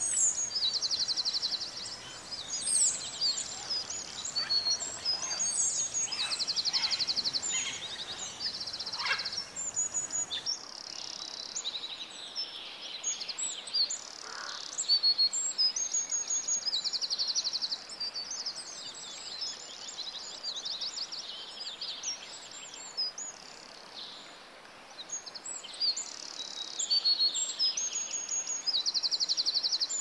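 Chorus of small birds chirping and whistling in high, quick notes, with a short buzzy trill repeated several times.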